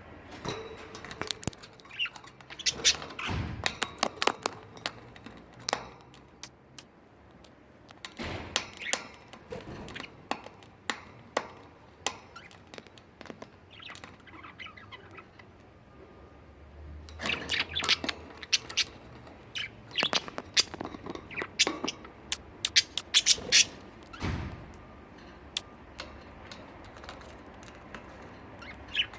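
Pet budgerigars chirping and squawking in short calls, mixed with many sharp clicks and taps, coming in three busy spells with quieter gaps between them.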